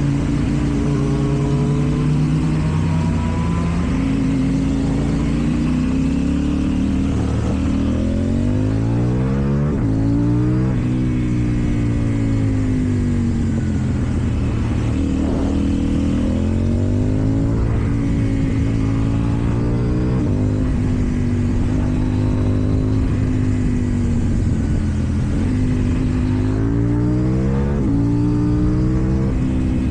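KTM Duke 790's parallel-twin engine through an Akrapovic exhaust, heard while riding: the revs climb and fall several times as the throttle is opened and rolled off, with a longer climb about a third of the way in.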